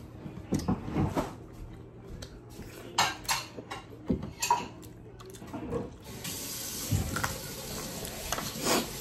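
Short clicks and clatter of dishes and eating. About six seconds in, a steady sizzle of food frying in a pan starts and keeps going.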